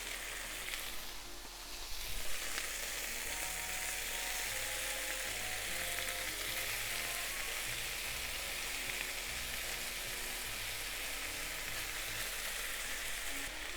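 Chicken thighs sizzling steadily in hot vegetable oil in a frying pan, just turned over to cook the second side.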